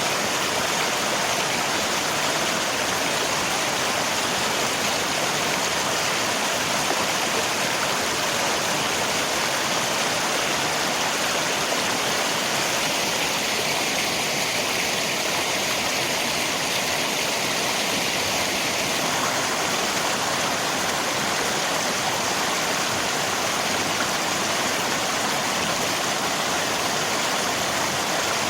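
River water rushing steadily, mixed with falling rain, as one even wash of water noise.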